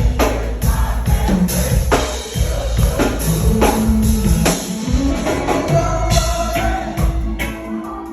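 A reggae band playing live: drum kit and deep bass keeping a steady beat, with singing over it.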